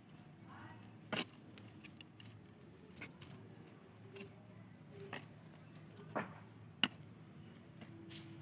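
Fertiliser being worked into the soil of a flower pot: faint scraping and scattered sharp clicks, the clearest a little after the first second and again near the seven-second mark.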